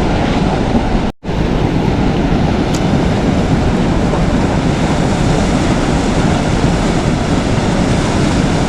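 Rushing river water: a steady, loud roar of flowing current, broken by a brief dropout about a second in.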